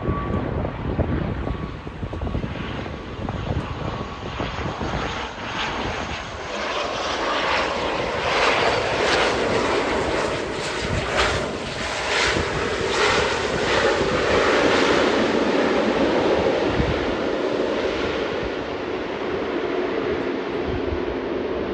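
Airliner engines running as an aircraft passes, growing louder towards the middle and staying strong to the end, mixed with gusts of strong wind buffeting the microphone.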